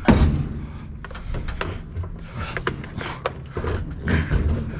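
A washing machine being wrestled and dragged: a heavy thud right at the start, then scattered knocks and scrapes over a low rumble.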